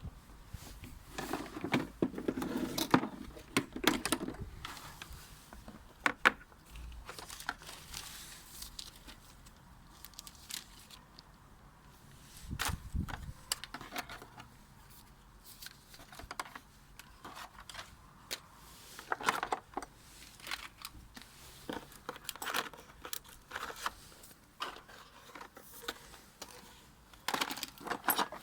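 Unboxing handling noise from a new rotary hammer's packaging: plastic wrapping crinkling and being torn, with irregular clicks and small metal clatters. There is a dull thud about halfway through.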